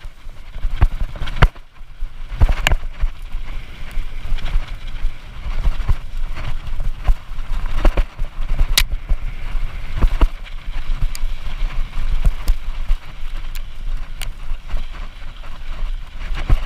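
Hardtail mountain bike rolling down a rocky trail: frame and chain rattle with irregular sharp knocks as the tyres hit loose stones, over a steady rumble of wind and tyre noise on the bike-mounted microphone.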